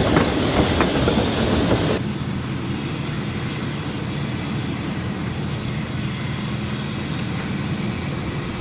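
A train running on rails, with wheel clicks over the rail joints for about the first two seconds. It then cuts abruptly to a quieter, steady low locomotive engine sound.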